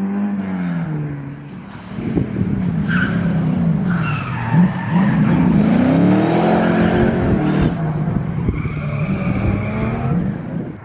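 Historic rally car drifting: the engine note drops about a second in, then from about two seconds in the revs rise and fall again and again as the throttle is worked through the slide, with short tyre squeals.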